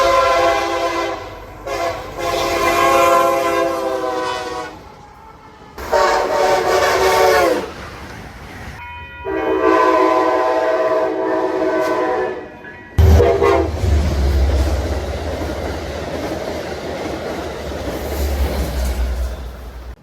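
A Metro-North train sounding its chime horn in a series of long blasts with gaps between them, the last one short, then passing close by with a loud low rumble and clatter of wheels on rail.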